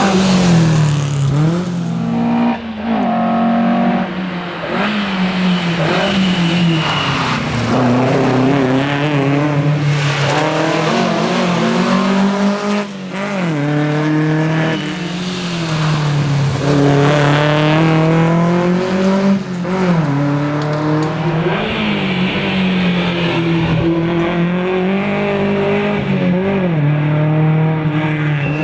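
1961 Volvo 122S's four-cylinder engine driven hard at rally pace, revs rising and falling over and over as it accelerates and backs off, with sharp brief drops a few seconds in and about halfway through.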